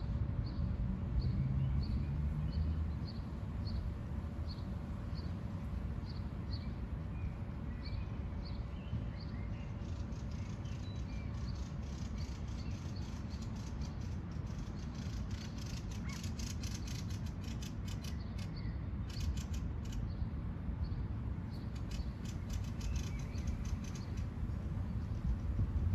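Birdsong outdoors: a bird repeats a short high note about twice a second. From about ten seconds in, a fast, high-pitched ticking or rasping runs in long stretches, all over a steady low background rumble.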